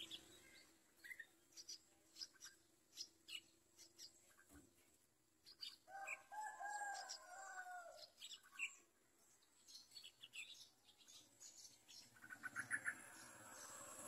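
Faint, scattered short high bird chirps, with one longer wavering call about six seconds in and a quick run of chirps near the end.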